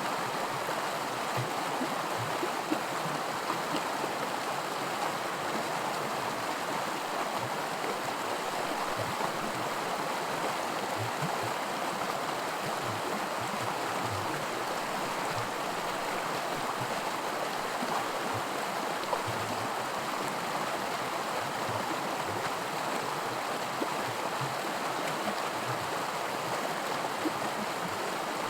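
A shallow creek rushing and gurgling over small rapids, a steady wash of water with little splashes and gulps scattered through it.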